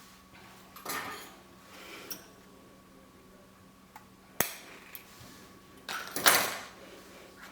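Scattered handling noises from objects being moved on a work surface: a few soft rustles and light clinks, one sharp click about four seconds in, and a louder rustle near the end.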